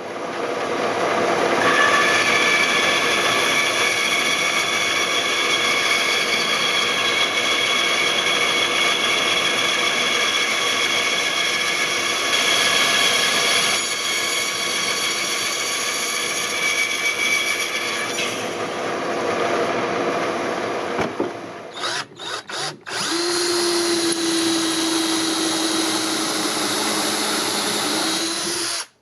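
Electric power tool running steadily for about twenty seconds, stopping and starting briefly a few times, then running again at a different pitch until it cuts off suddenly.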